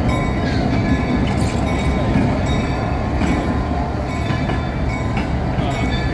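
A train passing close by: a loud, steady rumble of the train running on the rails, with faint high wheel squeals now and then.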